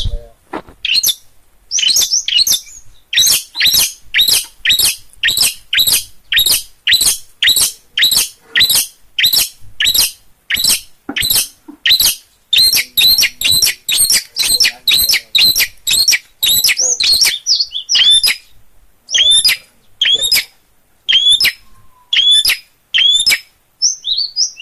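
Long-tailed shrike singing: a long run of loud, harsh, repeated notes, about two a second. Partway through, the notes change to a doubled pattern, and near the end they space out into separate hooked calls.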